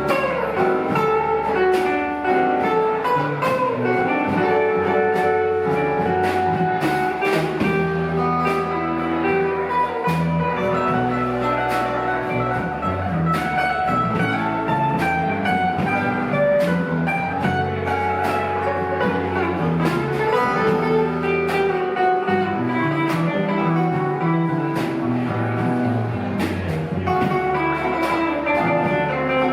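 Live rock band playing an instrumental jam: guitar lines over bass and drums, with a steady beat.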